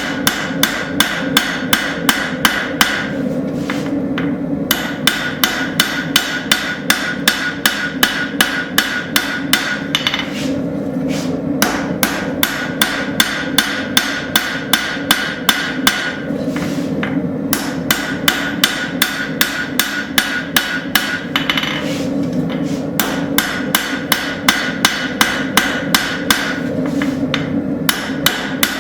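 Hammer blows on a hot railroad spike on the anvil, about three a second in runs broken by short pauses, each blow ringing. The spine is being hammered thin, which draws the blade into a downward hawkbill curve.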